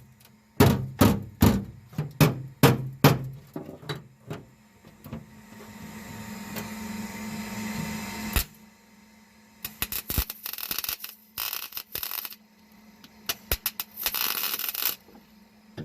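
A hammer striking metal, about two blows a second for the first few seconds, during sheet-metal repair of a battery tray. Then a hiss that builds and cuts off sharply, followed by several short bursts of hissing tool noise.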